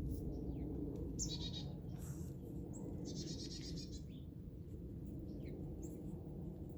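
Chickadee calling: two bursts of harsh, rapidly repeated notes, the second longer, with a few thin short chirps between them.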